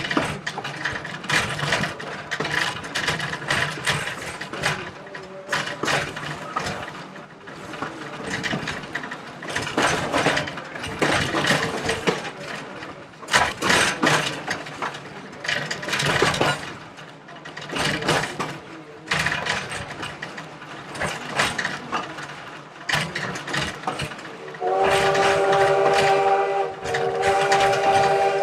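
Train rolling slowly along the track with irregular clattering and knocking from the wheels and cars. About 25 seconds in, the locomotive's whistle starts sounding a long, steady chord.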